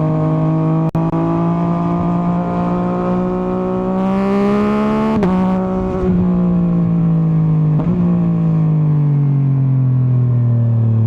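Yamaha MT-09's inline three-cylinder engine running under way. Its pitch climbs slowly, then drops a step about five seconds in, during a brief rush of noise, as the bike shifts up. It holds steady, then falls off steadily over the last few seconds as the bike slows.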